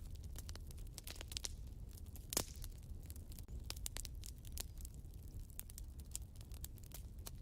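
Wood fire burning in a fireplace: an irregular run of sharp crackles and small pops, with one louder pop about two and a half seconds in, over a low steady rumble.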